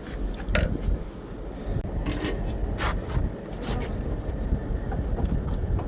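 A few short scrapes and knocks over a steady low rumble.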